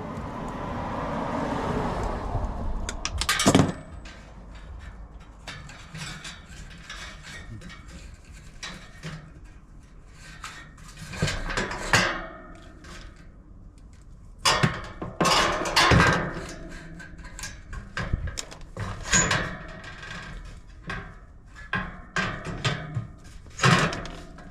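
Scattered clicks, knocks and light metal clatter of hands and tools working on a condenser fan motor's wiring as the spade connectors are pulled off. At the start there is a rushing noise that builds and cuts off suddenly about three and a half seconds in.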